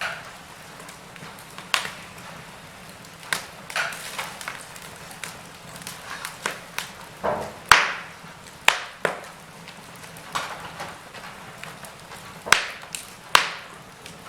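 Wood fire in a fireplace crackling, with irregular sharp pops over a low, steady background. The loudest pops come about halfway through and twice near the end.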